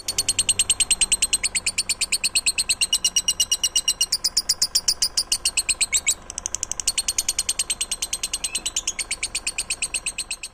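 A songbird singing one long, rapid trill of repeated high notes, about ten a second, with a brief dip in the middle before it carries on. It is a tutor ('masteran') song recording used to train caged songbirds.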